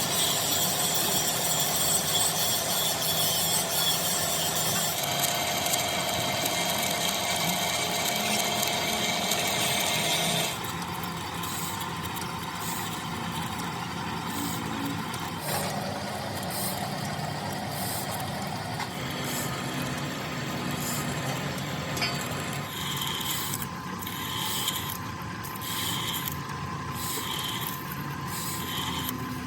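Machine-shop tools and machinery running, the sound changing abruptly about five and ten seconds in, with a regular series of short sharp strikes, about one and a half a second, near the end.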